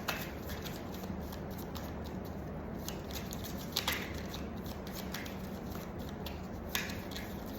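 A few light clicks and rustles of tarot cards being handled over a steady low room hum.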